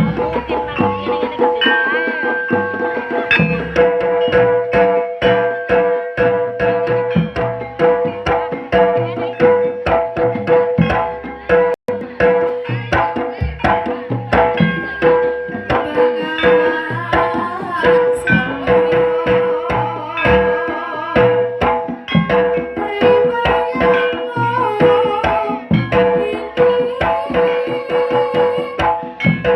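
Live jaranan music: a Javanese gamelan ensemble with kendang hand drums beating a dense, steady rhythm under sustained pitched melody lines.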